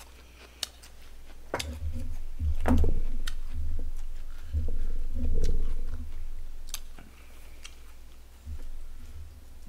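Close-miked chewing of barbecue pork trotter, with dull low thumps and rumbles, and a few sharp clicks of chopsticks against plastic takeout trays.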